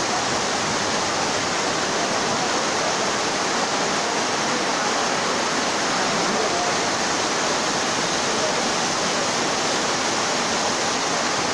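Heavy downpour with running, pouring water: a steady, loud rushing without a break.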